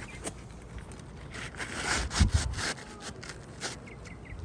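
Asphalt 3-tab shingle scraping and rubbing on the roof as it is worked into place under the course above, with a dull knock about two seconds in and a few light clicks.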